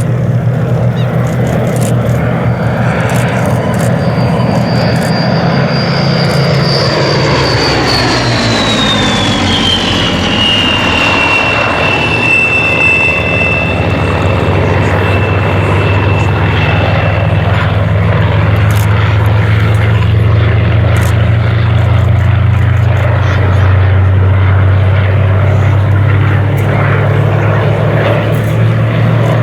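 Rolls-Royce Merlin V12 engine of a Second World War fighter flying past, a loud smooth drone. About ten seconds in, a high whine in the engine sound drops in pitch as the aircraft passes, and the deeper engine note then carries on steadily.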